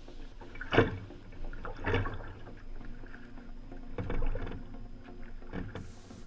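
Kayak paddling: four paddle strokes dip and splash in the water about every one to two seconds, the first one sharp and the loudest.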